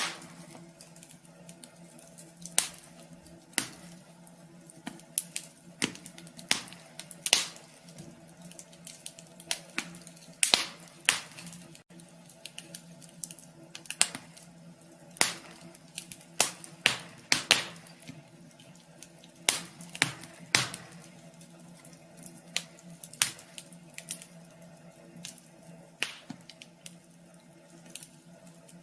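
Wood fire crackling in a wood stove: irregular sharp pops and snaps at uneven spacing, over a steady low hum.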